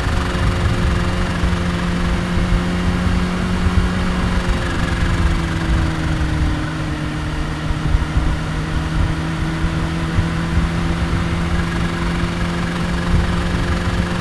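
Kawasaki Ninja H2's supercharged inline-four running at a steady, nearly constant pitch. The note sags slightly about five seconds in and then holds.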